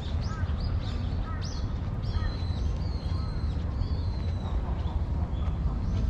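Small birds calling: quick high chirps in the first second or two, then several longer, high, even-pitched calls, over a steady low rumble.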